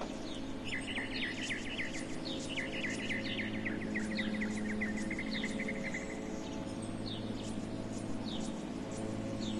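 A songbird singing: trills of quick, down-slurred chirps repeated rapidly, heaviest from about a second in to about six seconds in, with scattered higher single chirps, over a steady low background hum.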